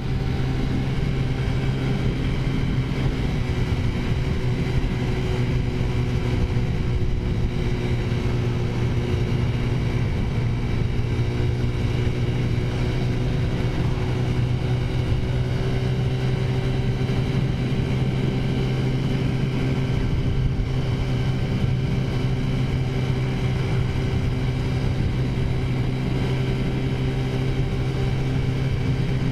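Taotao 50cc four-stroke scooter engine, fitted with a big-bore kit and the stock air cleaner, running at a steady cruising speed with an even, unchanging pitch.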